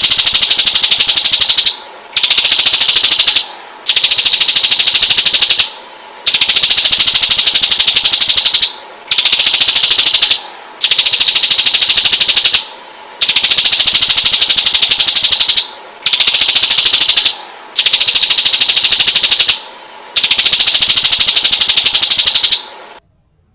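A white-rumped shama (murai batu) singing loud, rapid buzzy trill phrases, about ten of them, each one to two and a half seconds long with short pauses between. The song cuts off abruptly near the end.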